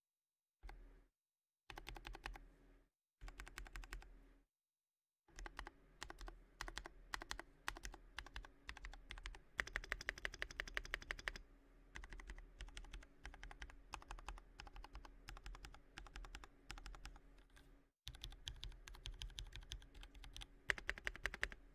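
Typing on a Space65 Cyber Voyager custom mechanical keyboard with tactile Trash Purple Panda switches lubed with Krytox 205g0. It starts as short bursts of keystrokes with pauses, then turns to steady typing from about five seconds in.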